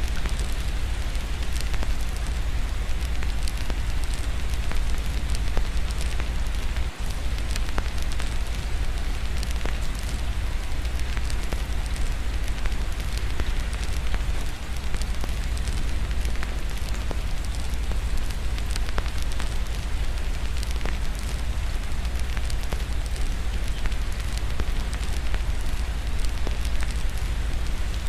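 Wood fire crackling with many small irregular pops over a steady hiss of rain, with a constant low rumble underneath.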